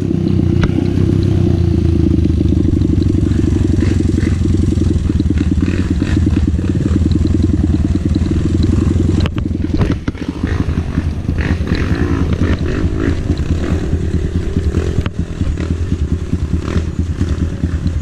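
Dirt bike engine running while riding, a steady pulsing note that dips briefly about ten seconds in and again near fifteen seconds, with a few knocks and clatter.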